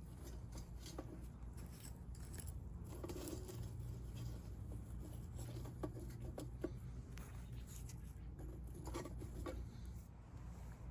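Scattered light clicks and rustles from small objects being handled, over a low steady rumble.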